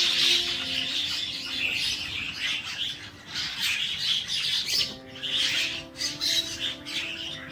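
Small birds chirping busily and continuously, over faint background music.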